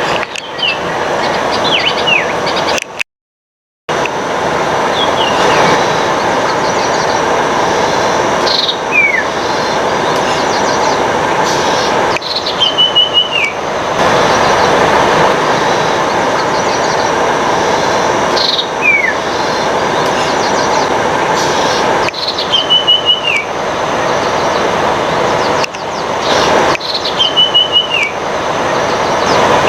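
Bird calls, typical of a rufous treepie: short high whistles sliding downward and a brief flat trill that drops at its end, repeated every few seconds over a loud, steady rushing noise. All sound cuts out for under a second about three seconds in.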